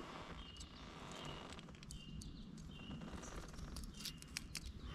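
A small bird chirping faintly, short high notes repeated about every half second, over a low background rumble, with a few light clicks near the end.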